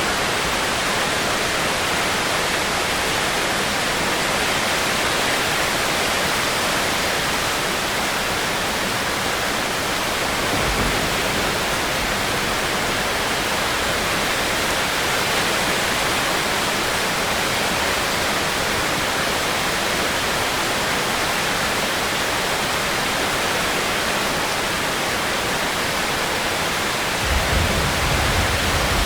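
Steady heavy rain, a dense even hiss. A brief low rumble comes about ten seconds in, and another, stronger low rumble starts near the end.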